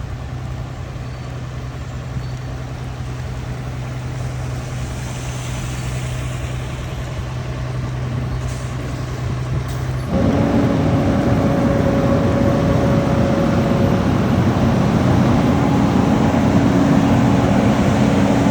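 A motor vehicle's engine running steadily with a low hum. About halfway through, the sound abruptly gets louder, with a higher steady hum and more noise.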